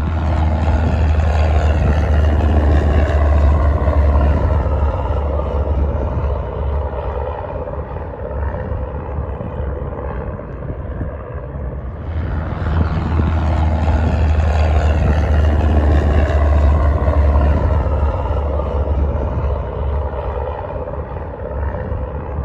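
Aircraft engine noise that swells loud, fades and swells loud again, its pitch bending as the aircraft pass by, over a steady low rumble.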